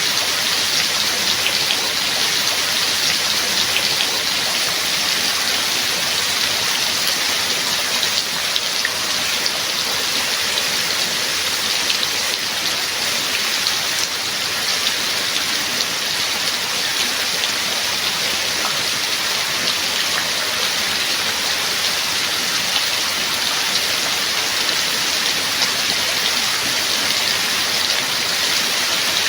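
Steady rain falling, an even hiss of water with scattered individual drop ticks throughout.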